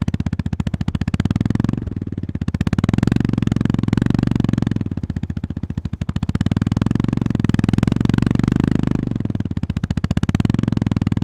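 Honda GB350's air-cooled single-cylinder engine running at low revs with a close, regular beat of firing pulses. The throttle eases off and opens again about two seconds in, around the middle and near the end.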